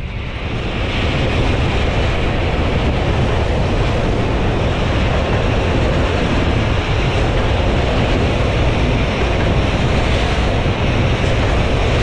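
Passenger train running at speed over a river bridge, its wheels giving a steady rumble. Heavy wind rushes over the microphone, which is held outside the coach. The rush rises about a second in and then holds.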